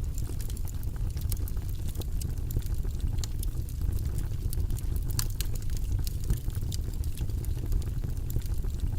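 Wood fire burning in a fireplace: a steady low rumble of the flames with frequent sharp crackles and pops, one louder snap a little past halfway.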